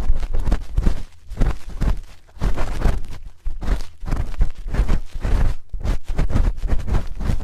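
A spoon rubbed and scraped against an ASMR ear microphone in quick, irregular strokes, several a second, with a deep rumble from contact with the mic.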